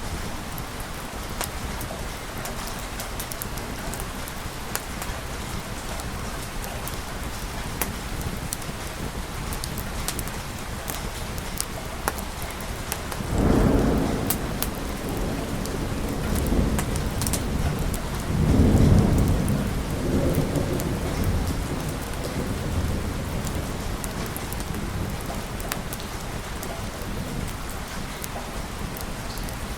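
Steady rain falling, with thunder rolling twice about halfway through, each peal swelling up and rumbling away over a few seconds.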